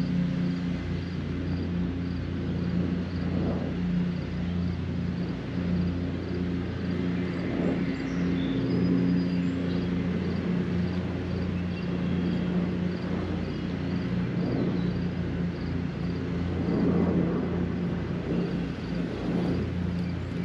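Rainy lakeshore ambience: a steady low mechanical hum, such as distant traffic, under an even hiss of rain. Faint short bird chirps repeat high above it.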